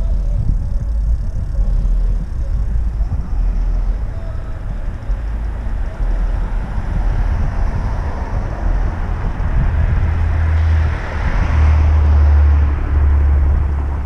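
Wind buffeting the microphone while riding, a heavy, uneven low rumble, with rushing road noise that swells and fades in the second half.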